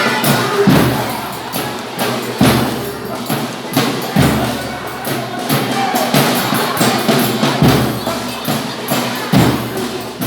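Folia de Reis percussion playing: tambourine jingles shaken and struck over a drum thumping about every second and three-quarters.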